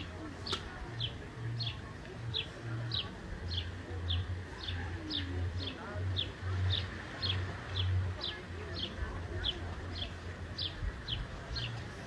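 A bird calling: short, high, falling chirps repeated evenly about twice a second, over a faint low rumble.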